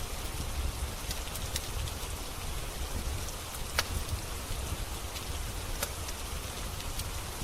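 Steady rain hiss with a low rumble under it, and the occasional sharp pop of a crackling wood fire, every second or two.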